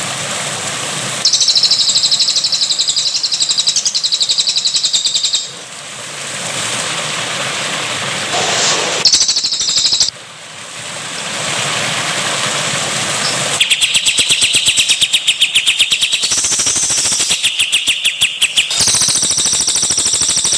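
Caged songbirds singing fast, rattling trills of rapidly repeated high notes, over a steady rush of water. The song comes in stretches that start and stop abruptly.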